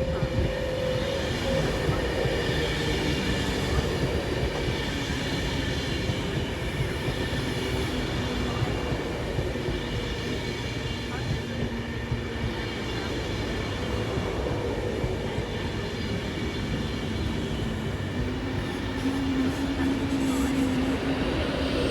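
A train running steadily through the station: a continuous rumble of wheels and traction, with a faint tone that falls slightly in pitch near the start.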